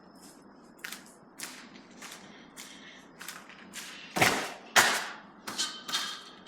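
Footsteps, a short scuff about every half second, with two heavier steps around four and five seconds in.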